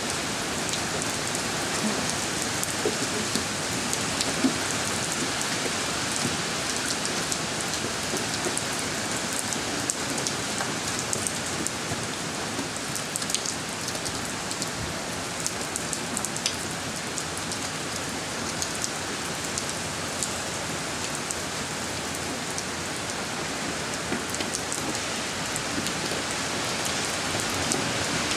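Steady rain falling on a wet driveway and parked car, an even hiss with occasional sharp drip ticks close by.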